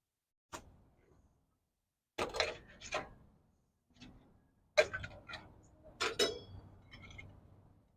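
Stainless-steel coffee percolator parts being handled, making clicks and metallic clinks in several separate bursts. One clink about six seconds in rings briefly.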